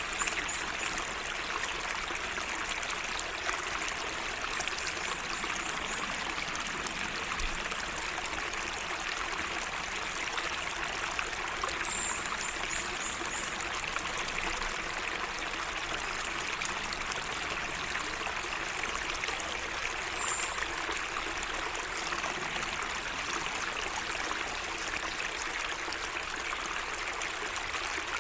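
Water in a small garden waterway trickling and flowing steadily. A small bird's high, thin call of a few quick notes comes in a few times.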